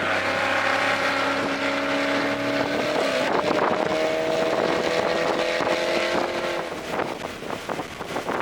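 Toyota GR Corolla's turbocharged 1.6-litre three-cylinder engine under power on track, breathing through an aftermarket intake. Its note steps up in pitch about three seconds in and climbs slowly, then drops away near the end as the throttle is lifted, leaving wind and tyre noise.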